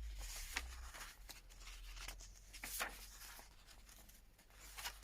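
Paper pages, tags and cards of a handmade junk journal being handled and turned: soft, scattered paper rustles and rubs, with a few short scrapes, over a faint low hum.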